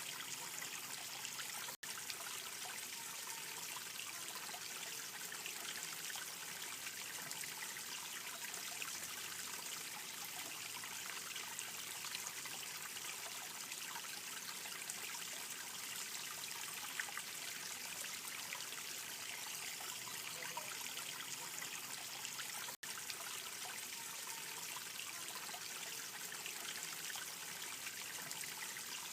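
Steady trickling, babbling water, a continuous splashing hiss that cuts out for an instant twice.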